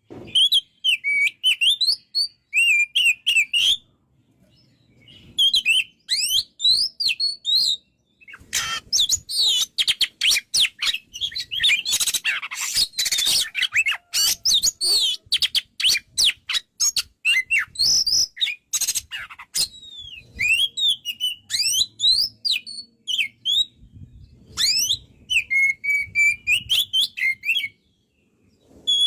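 Oriental magpie-robin (kacer) in full, continuous song: fast phrases of varied whistles, chirps and slurred glides, broken by short pauses. A dense run of rapid chattering notes comes in the middle.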